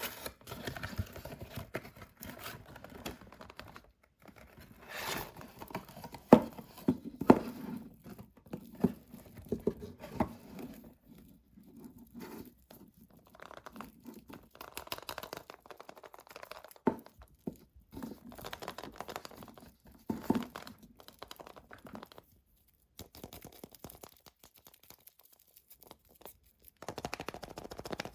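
Hands unwrapping surprise eggs: the wrapper crinkles and tears, with scattered sharp clicks and taps of handling and a couple of short pauses.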